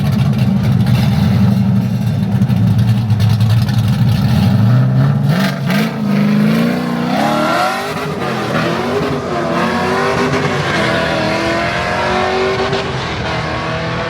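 A drift car's engine is loud and low on the start line, then the car launches down the drag strip. The pitch climbs again and again through the gear changes, and the sound grows fainter as the car pulls away.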